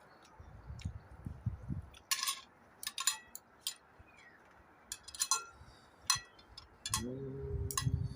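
Light metallic clinking and chiming: a series of separate ringing strikes spread over several seconds, like chimes or tableware being knocked together. A short, steady hum from a person comes near the end.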